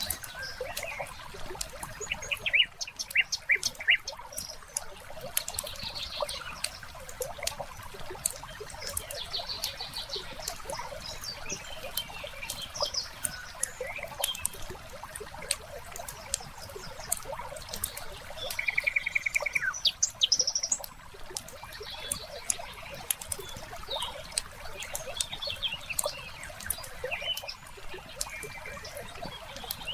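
Wood fire crackling with frequent sharp pops, while birds chirp and call over it; one bird gives a short even trill about two-thirds of the way through.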